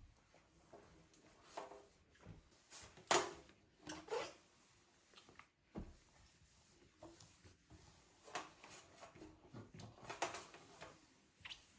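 Scattered light knocks and rubbing sounds of household objects being handled, the loudest knock about three seconds in.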